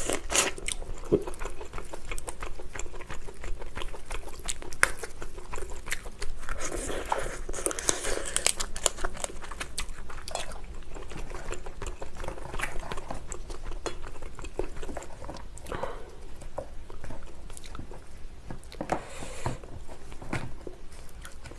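Close-miked mukbang eating of lobster: wet chewing with many sharp mouth clicks, and a few longer crunching patches, about seven seconds in and near the end.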